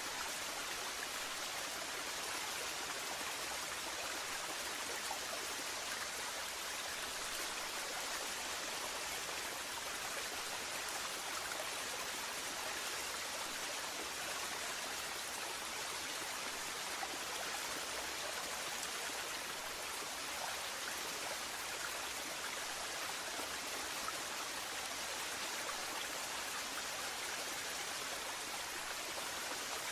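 Waterfall: a steady rush of falling water, with the most energy in the upper range and no change throughout.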